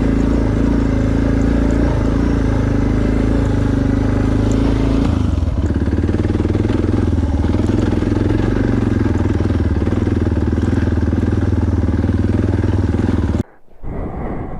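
Suzuki DR650's single-cylinder engine running steadily as the bike rides along; its note changes about five seconds in. The sound cuts off abruptly about a second before the end.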